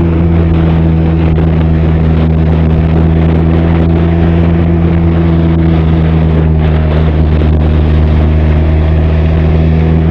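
Benelli TRK 502's parallel-twin engine and exhaust running steadily at an even engine speed, the pitch holding constant throughout.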